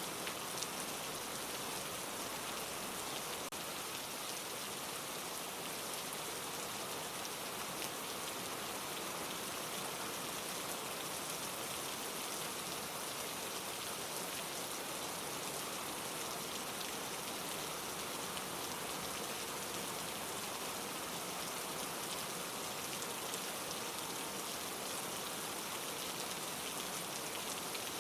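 Steady rain falling on leaves, an even hiss with scattered faint drop ticks.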